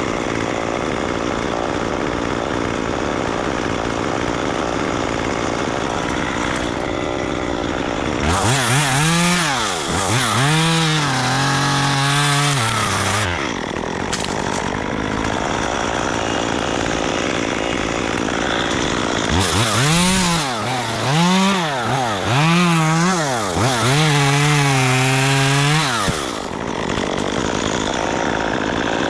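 Gas chainsaw running at idle, then revved in quick up-and-down blips and held at high revs, twice: first about eight seconds in, again about twenty seconds in.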